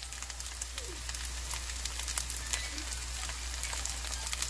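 Eggplant and tuna-flake pancakes sizzling in shallow oil in a frying pan, a steady sizzle with many small crackling pops.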